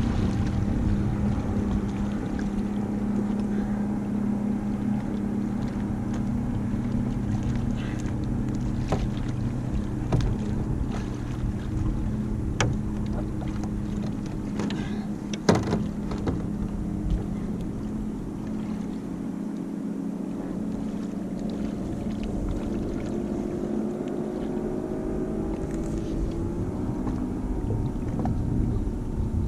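A boat engine running steadily with a low hum, its pitch rising near the end. A few sharp knocks sound over it, the loudest about halfway through.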